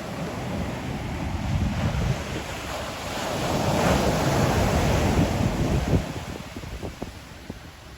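Ocean surf: a wave swells, breaks with a rush about halfway through and washes back, fading near the end. Wind buffets the microphone with a low rumble.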